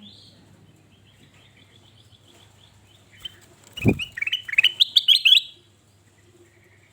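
Male kutilang emas bulbul chirping: faint notes at first, then a loud, rapid run of rising chirps about four seconds in that stops after a second and a half. A short low thump comes just before the loud run.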